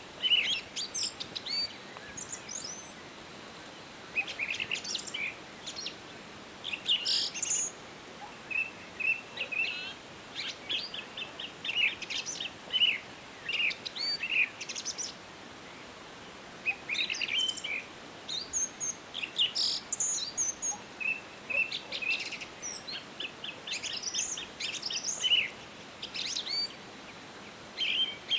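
Songbirds singing: short chirps and quick trilled phrases, repeating every second or two, over a steady soft hiss.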